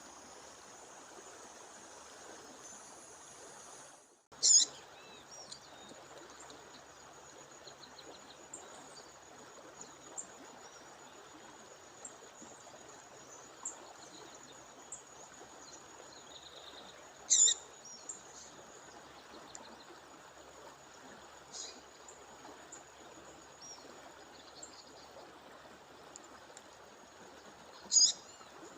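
A female songbird calling: three loud, short, high calls about twelve seconds apart, with a few faint chirps between, over the steady rush of a waterfall. A thin, steady high tone runs beneath, and the sound drops out for a moment just before the first call.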